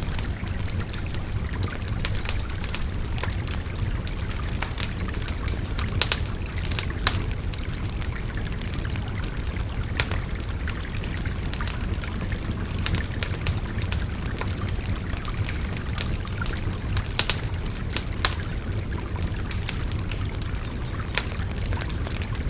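Wood fire crackling and popping in irregular sharp snaps over the steady rush of a babbling river.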